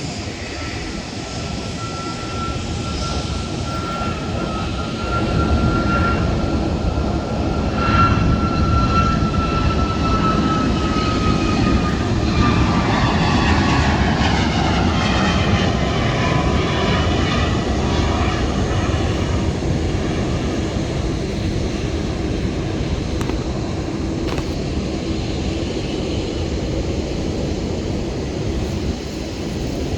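Jet airliner passing by: engine rumble that swells in, with a high whine that falls in pitch as the plane goes past, then slowly fades.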